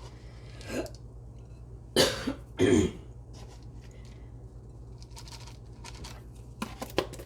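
A woman clears her throat with two short coughs, about two seconds in.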